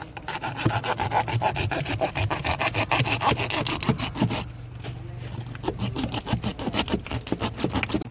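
A knife cutting and scraping a large fish, in rapid repeated strokes, several a second, easing off briefly about halfway through.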